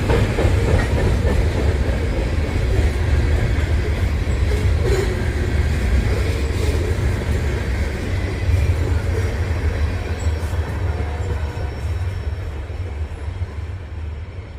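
Freight train's cars rolling over a trestle bridge: a steady low rumble with clickety-clack of wheels on rail joints, fading over the last few seconds as the train passes.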